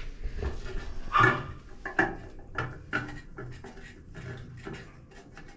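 Scattered light knocks and clicks of a bathroom faucet fitting being handled and turned by hand, with a brief voice-like sound about a second in.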